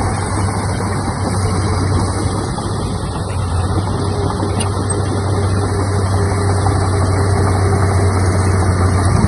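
Heavy diesel engine of earthmoving equipment running steadily, with a constant low hum.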